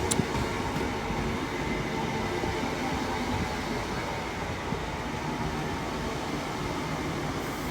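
InterCity 125 (HST) train with Class 43 diesel power cars rolling into the station, a steady rumble of wheels and engines. A single short, sharp click sounds right at the start.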